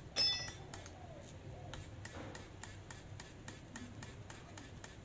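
A metal part clinks with a short ring about a quarter second in, over a steady, even ticking of about four ticks a second.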